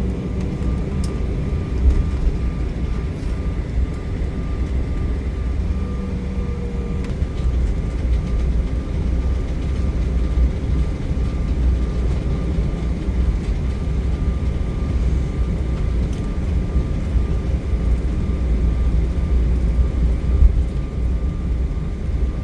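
Cabin noise inside an Embraer E175 jet airliner: its twin turbofan engines running with a steady low rumble and a few steady tones, some of which drop away about seven seconds in.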